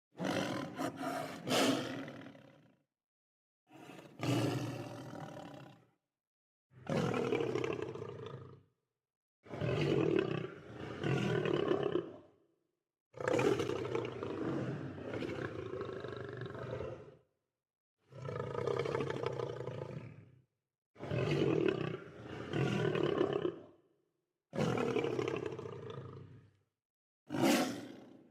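Lion roaring: about nine separate calls, each two to four seconds long, with dead silence between them.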